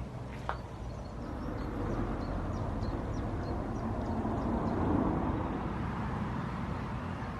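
Road traffic noise: a vehicle passing, swelling to its loudest about five seconds in and then easing off, with faint short bird chirps over it.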